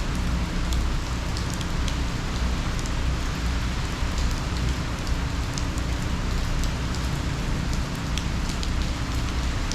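Heavy hurricane rain and wind: a steady hiss of rain with a scattered patter of sharp drop ticks over a low, buffeting rumble.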